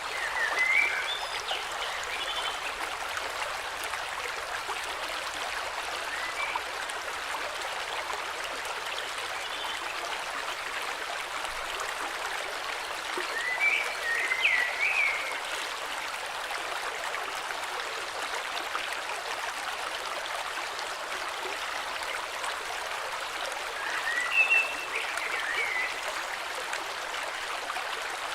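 Steady rushing of a flowing stream, with a songbird singing three short, twittering phrases about ten seconds apart.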